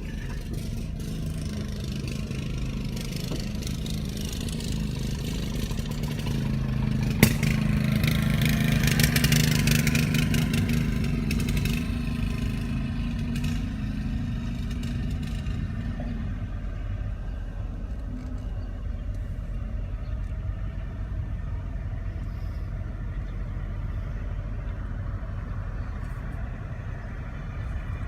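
Car engine and road noise rumbling steadily, swelling louder for several seconds about a quarter of the way in, with one sharp click as the swell begins.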